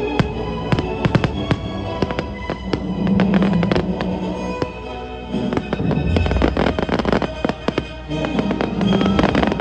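Fireworks going off in quick succession, many sharp crackles with a deep boom about six seconds in, over music with long held notes.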